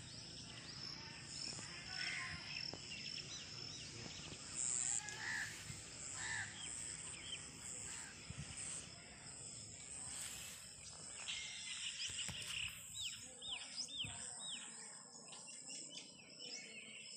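Birds chirping and calling over a steady outdoor background with a constant high hiss. A run of four quick, falling chirps comes near the end.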